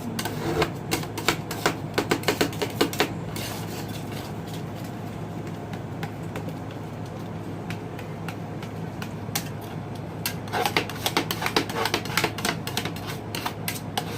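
Metal spatulas chopping rapidly on the cold steel plate of a rolled ice cream maker: a fast clatter of taps for about three seconds, a quieter spell, then a fast clatter again near the end, over a steady low hum.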